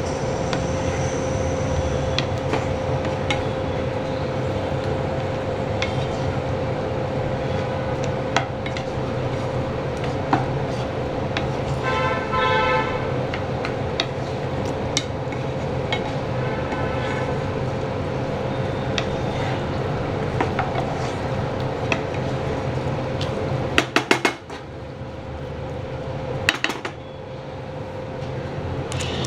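A metal spatula or spoon clinking and scraping against a cooking pan as chicken lollipops are stirred into thickened gravy, with scattered sharp knocks and a brief ringing clink about twelve seconds in. A steady hum runs underneath.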